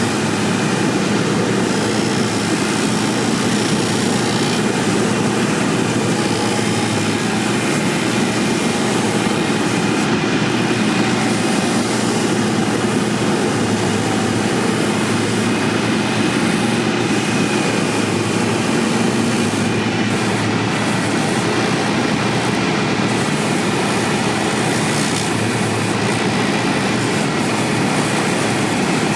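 A boot-repair shop machine running steadily with a constant, unbroken mechanical noise.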